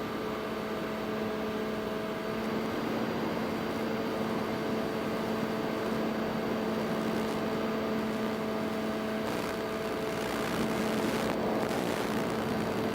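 Electric motors of an FPV drone humming steadily at one even pitch over a hiss of rushing air, with a few short gusts of noise near the end.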